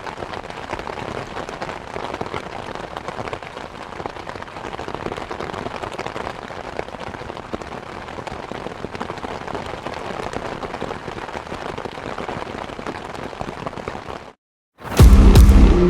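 Heavy thunderstorm rain pelting a car in a dense, steady crackle. Near the end it cuts out abruptly, and loud electric-guitar music starts.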